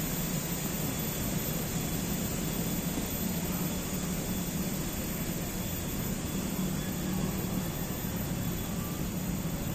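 Steady, even background rumble of distant engines, with no distinct events.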